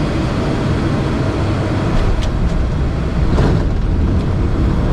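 Steady noise on an airliner's flight deck during landing: a dense low rumble of engines and airflow, with a brief rushing swell about three and a half seconds in.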